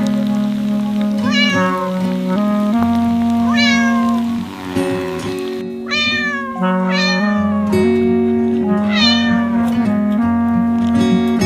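A cat meowing five times over background music, each meow short, rising then falling in pitch.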